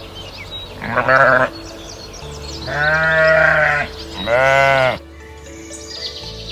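Sheep bleating three times, a short bleat about a second in and then two longer, loud bleats, over soft background music.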